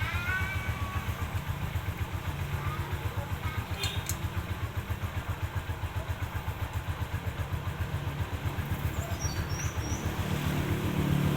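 Kawasaki Barako's single-cylinder four-stroke engine idling with an even, steady thump, picking up slightly near the end, running after its top overhaul.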